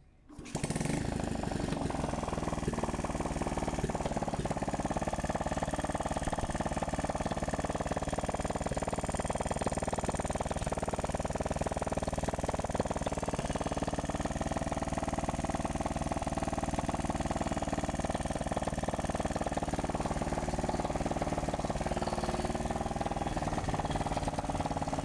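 Honda XRM 110's single-cylinder four-stroke engine running steadily, cutting in abruptly about half a second in.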